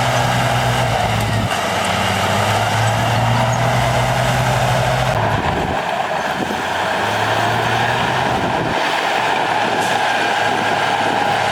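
Heavy diesel earthmoving machinery running steadily under load, with a high whine over the engine. The low engine note fades for a moment a little past the middle and comes back.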